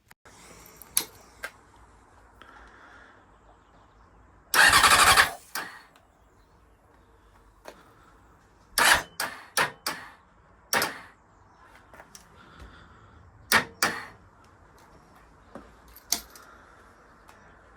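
Four-cylinder Honda CBR motorcycle engine failing to start. The starter cranks loudly for just under a second about four and a half seconds in, then gives several short stabs, each cut off at once, and the engine never catches. The owner first took this for a failed starter motor; the cause turned out to be fuel flooding cylinders 3 and 4, a possible hydrolock.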